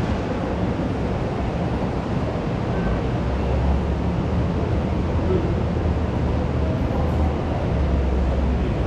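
School canteen ambience: a dense, steady wash of crowd noise in which no single voice stands out, with a low rumble that strengthens about three seconds in.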